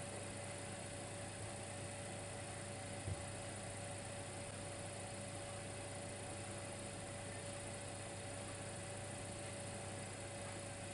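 Dimplex electric fireplace running: a steady electrical hum over a constant hiss. There is one soft knock about three seconds in.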